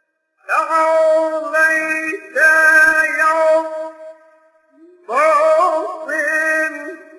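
A man's voice chanting an Arabic supplication in a melodic, drawn-out style: four long held phrases with ornamented turns in pitch, separated by short pauses.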